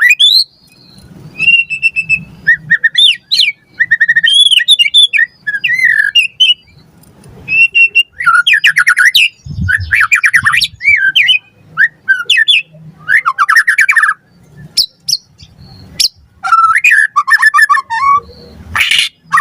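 White-rumped shama (murai batu) singing loudly in full song. Its phrases run in quick succession and mix clear whistles, fast rattling trills and a few sharp clicks, with short pauses between bouts.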